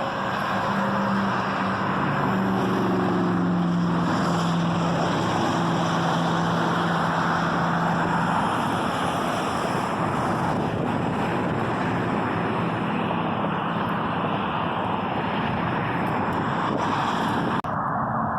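Steady wind and road noise of a moving car, with a low steady engine hum through the first several seconds. Near the end the hiss drops away suddenly, leaving a duller rumble.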